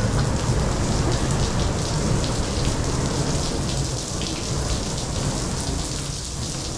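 Artificial rain from a rain room's overhead water system falling steadily as dense spatter and patter of drops, with a low rumble underneath, easing slightly in the last couple of seconds.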